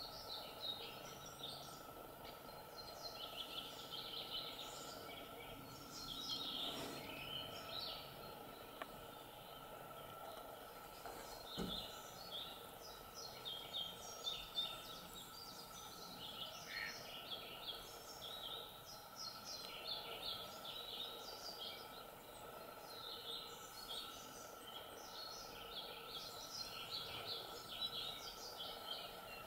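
Birds singing, many short chirps and trills overlapping, over a faint steady high hum and a quiet outdoor background.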